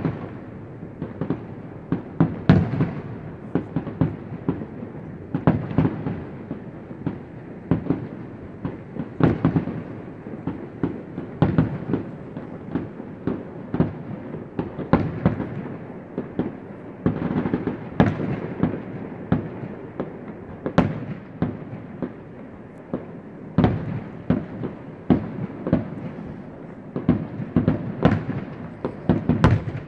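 Aerial fireworks shells bursting in an uneven, rapid run of bangs, with crackling between them.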